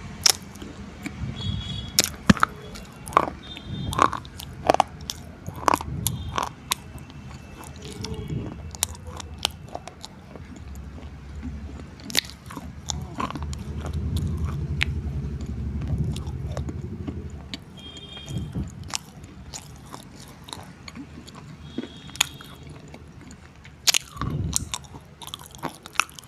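Close-miked mouth sounds of a person eating: chewing, lip smacks and sharp crunchy clicks at an irregular pace, with a low rumble for a few seconds in the middle.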